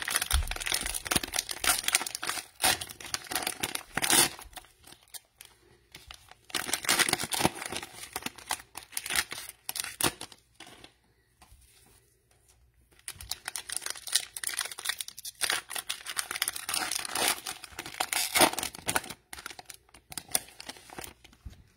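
Cellophane wrapper of an NBA Optic cello pack of trading cards crinkling and tearing as it is ripped open. The crackling comes in three spells of several seconds with short pauses between.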